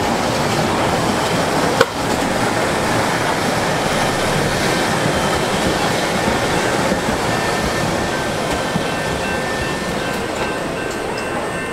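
A CTA Budd 2600-series rapid-transit train running past on the tracks: a steady rumble of wheels on rail. There is one sharp click about two seconds in, and faint steady whining tones in the second half.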